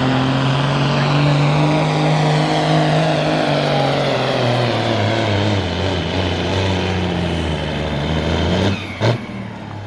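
Cab-over semi truck's Cummins diesel running hard under load while pulling the sled, its pitch slowly falling as the engine lugs down, then easing off near the end. A short sharp hiss follows.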